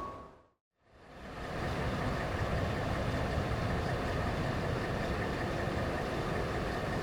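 After a brief cut to silence about half a second in, jet airliner engines idling: a steady rumble with a faint high whine.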